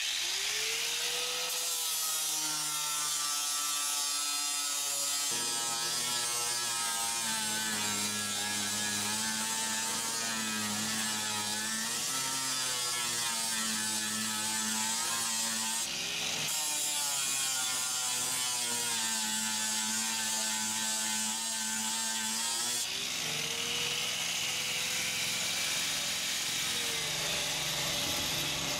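Electric grinder running on fiberglass, a steady whine that wavers and dips as the disc is loaded, over a hiss of abrasion. The sound changes abruptly a few times.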